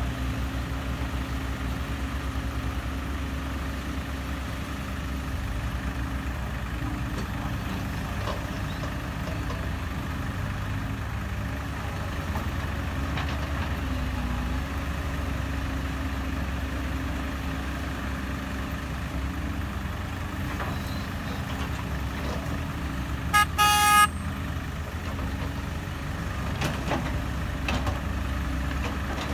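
Diesel engines of an excavator and dump trucks running, a steady low rumble, with one short horn blast a few seconds before the end.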